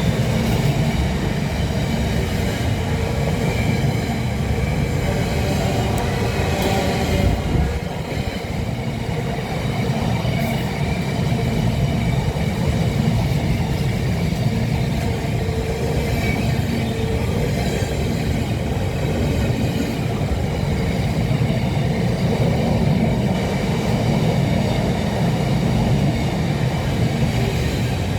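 A train running on the line: a steady, loud rumble with faint humming tones above it, unbroken throughout and with no horn.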